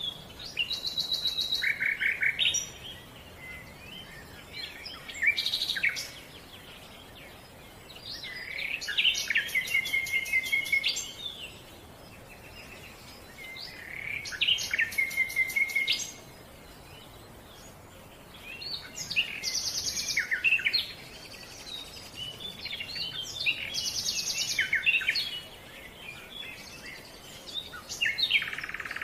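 Songbird singing in phrases of about two to three seconds, repeated every few seconds, each with rapid high trills and whistled notes.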